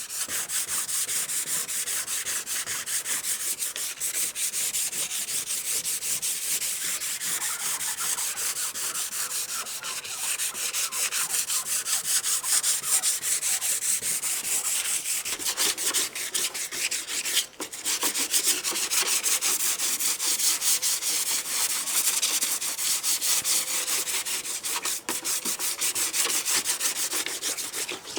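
Sandpaper rubbing over a surface in rapid, even back-and-forth strokes, with a brief pause about 17 seconds in.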